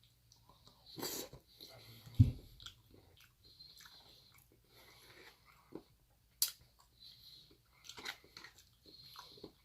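A person chewing and biting food close to the microphone: wet mouth clicks and small crunches, with a dull thump a little over two seconds in.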